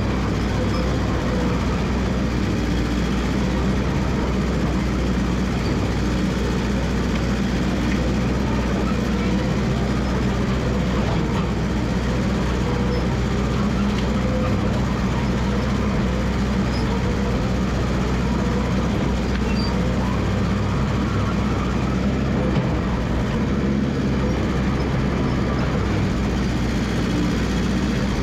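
Massey Ferguson 300 crawler dozer engine running steadily.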